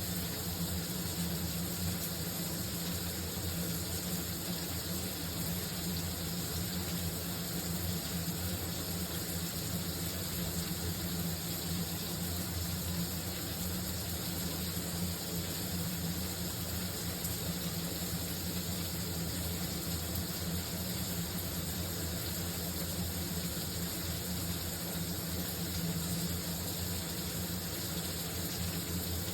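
Shower running: a steady, unbroken spray of water with a low rumble underneath.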